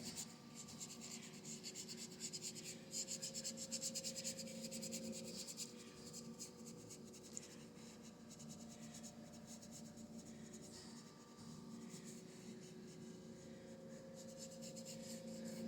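Paintbrush scrubbing acrylic paint onto a canvas in quick, faint scratchy strokes, busiest in the first third and lighter after that, over a faint steady hum.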